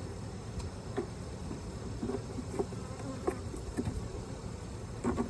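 Swarm of honeybees buzzing steadily around an open hive, with scattered light knocks and clicks.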